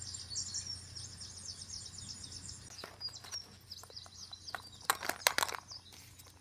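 A small bird chirping over and over in the background, several quick high chirps a second, fading after about three seconds. In the second half come a few sharp clicks of plastic toys and eggs being handled.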